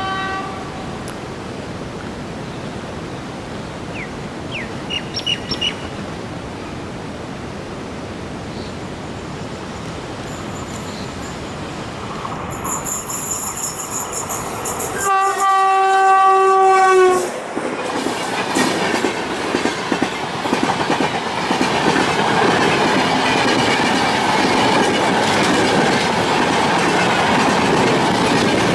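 Indian Railways WAP-7 electric locomotive horn: one sounds briefly at the start, then a loud two-second blast about halfway through. After it the train passes close, with wheels clattering over the rail joints, growing louder toward the end.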